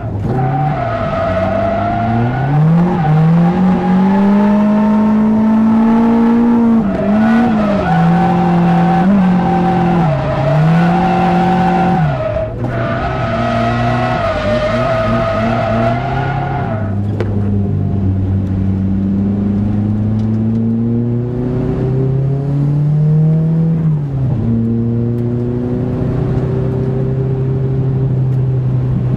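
A Nissan 180SX's engine heard from inside the cabin while drifting, revving up and down over and over as the car is thrown through corners, with a brief lift about twelve seconds in. Tyres squeal through the first half, and the revs swing more slowly in the second half.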